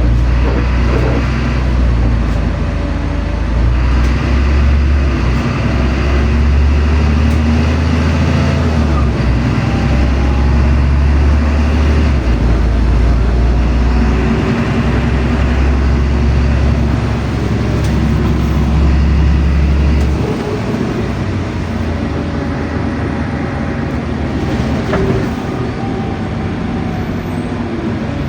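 LiAZ-5292.65 city bus under way, heard from inside: a loud, deep engine and drivetrain drone with brief dips a few times, which eases off sharply about two-thirds of the way through, leaving quieter road and rattle noise.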